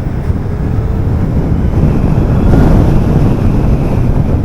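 Wind buffeting the microphone: a steady, loud low rumble that swells a little about halfway through.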